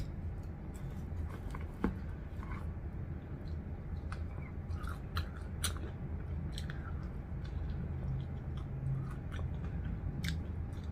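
A person chewing and biting into crispy fried chicken at close range: scattered small crunches and mouth clicks over a low steady hum.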